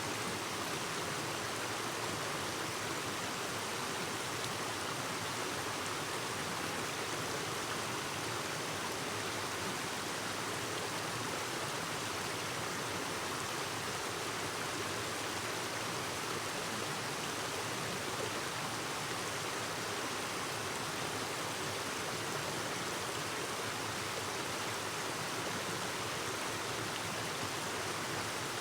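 Clear mountain stream flowing over rocks: a steady, even rush of water with no break or change.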